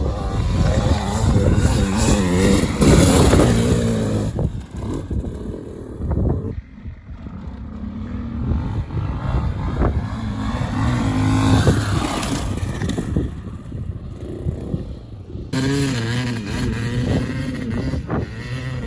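Dirt bike engine revving and accelerating, its pitch rising and falling as it is ridden, loudest early on and again about twelve seconds in, with a brief drop-off around seven seconds.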